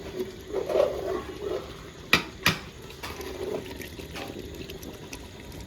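Steady watery noise, bubbling or splashing liquid, with two sharp clicks about half a second apart a little after two seconds in.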